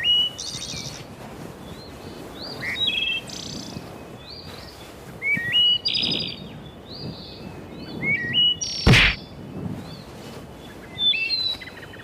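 Small songbirds chirping, many short calls that rise or step up in pitch, repeated throughout, with one sharp knock about nine seconds in.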